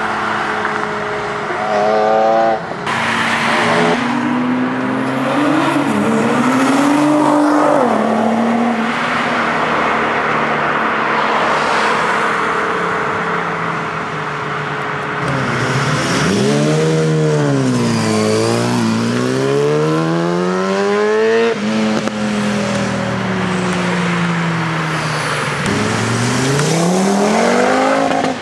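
Sports car engines accelerating hard one after another, loud exhaust rising in pitch, dropping at each gear change and climbing again. The biggest run-up comes about two-thirds of the way through.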